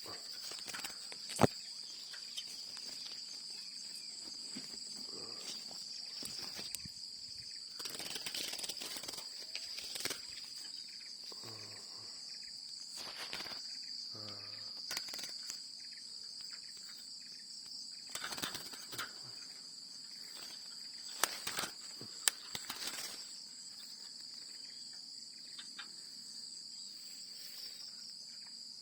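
Steady high-pitched drone of insects, with a few sharp clicks and brief rustles about 1.5 s in, around 8–10 s, 18–19 s and 21–22 s.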